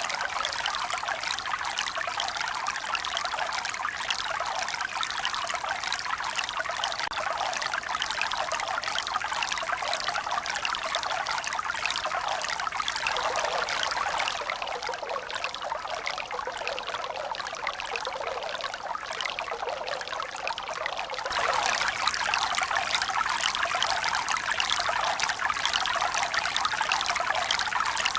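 Running water, a steady splashing rush with little deep rumble. It drops a little in level about halfway through, then steps up abruptly about three quarters of the way in.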